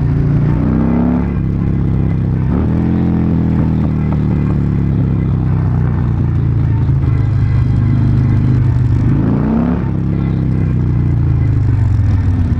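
Motorcycle engine running at a steady low cruising pitch while riding, with wind rush. Briefly rising engine revs cut in about a second in, near three seconds, and again around nine and a half seconds.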